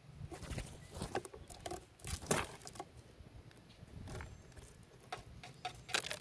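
Birds feeding at a feeder: irregular sharp taps, clicks and scratches of pecking at seed, loudest a little past two seconds in and near the end.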